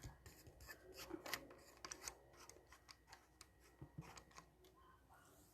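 Faint scattered clicks and rubbing: a phone camera and its mount being handled and moved, mostly in the first four seconds.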